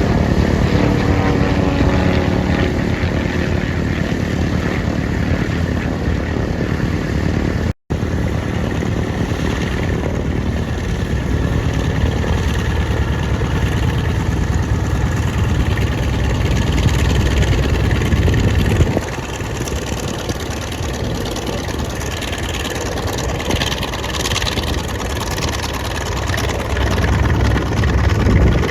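Light aircraft's piston engine and propeller running, its engine speed shifting in the first few seconds. The sound breaks off for an instant about eight seconds in and drops a little in level after about nineteen seconds, as one clip gives way to the next.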